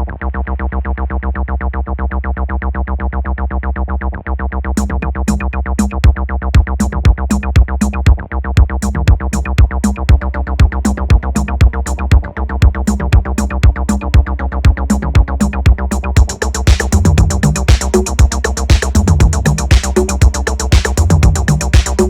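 Electronic dance music: a fast, steady drum-machine pulse with synthesizer, muffled at first, then crisp high percussion ticks come in about five seconds in and heavier beats about a second later, and the sound opens up fuller and brighter around sixteen seconds in.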